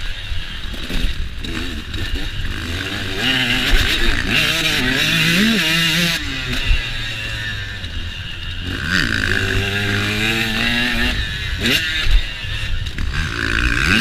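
KTM motocross bike engine revving hard and easing off again and again while riding, the pitch climbing and dropping with each burst of throttle. Rushing noise and scattered knocks run through it.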